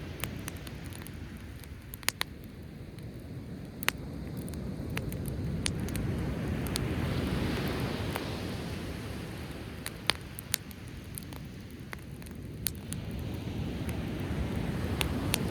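Driftwood campfire crackling with scattered sharp pops, over the low wash of sea waves that swells up about halfway through and again near the end.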